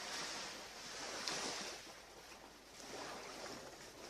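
Ocean waves washing onto a beach, the surf's hiss swelling and fading three times.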